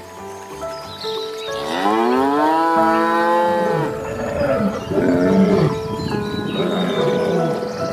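Cow mooing: one long call that rises in pitch and then holds, starting about two seconds in, followed by several shorter calls. Background music plays throughout.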